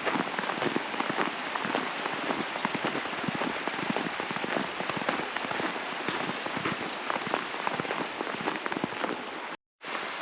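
Dense, irregular patter of falling precipitation on surfaces, a steady hiss full of fine ticks. The sound cuts out for a moment near the end, then resumes.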